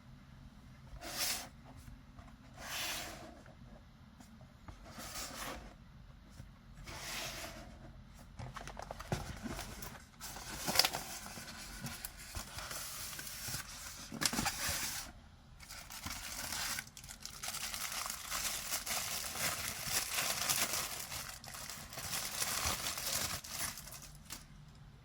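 Statue packaging being opened by hand: four separate short rustles in the first several seconds, then near-continuous tearing and crinkling until shortly before the end.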